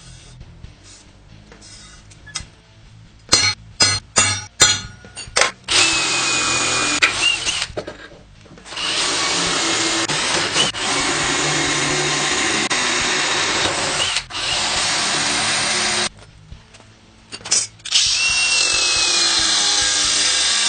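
Handheld power tool running: a quick string of short bursts a few seconds in, then long steady runs of several seconds each with brief stops between them.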